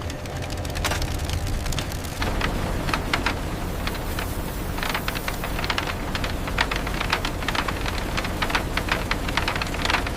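A small motor running steadily while small stones clatter and click irregularly, the sound of a miniature stone crusher or loader handling pebbles.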